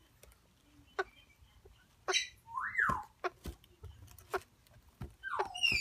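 Baby African grey parrots calling: a harsh squawk about two seconds in, a whistle that rises and falls just before three seconds, and a falling whistle near the end, with sharp clicks scattered between.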